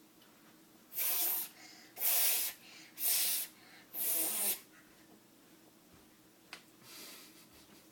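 A person blowing on hot noodles to cool them: four short breathy puffs about a second apart, then a fainter one near the end.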